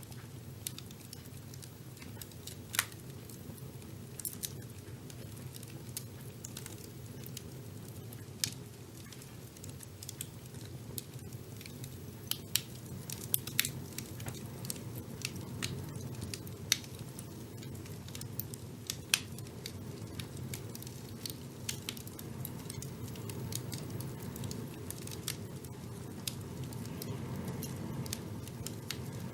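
Wood fire burning in a fireplace: a steady low rumble of flames with irregular crackles and sharp pops, a few louder snaps scattered throughout.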